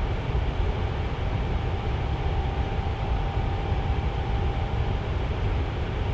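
Tower fan running steadily: an even airy rush, strongest in the low end, with a faint steady hum.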